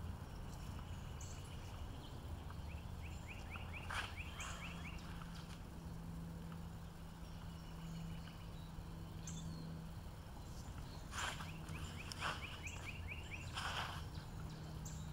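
Outdoor ambience: a steady low hum with a small bird's quick chirping trill, heard twice, about a second long each time. A few short swishes and scuffs come from the sword drill, the clearest about four seconds in and near the end.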